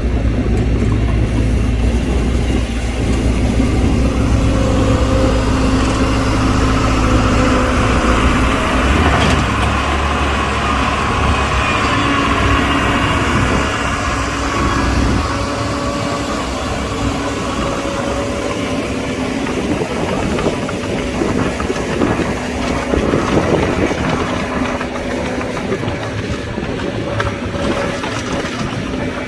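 Diesel engines of heavy construction machinery running, their note shifting a few times as the machines work. A deep rumble is strong for the first nine seconds or so and then eases off.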